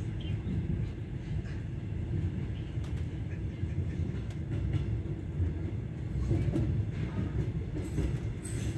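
Passenger train running along the track, heard from inside a carriage: a steady low rumble with scattered clicks from the wheels and rails, growing louder and busier near the end.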